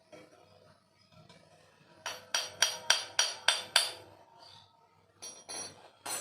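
Sharp metallic knocks on a seized refrigerator compressor, each with a short ring: about seven quick strikes a third of a second apart, then three more near the end. They come from work to free a stuck piston that turns out to be very stiff.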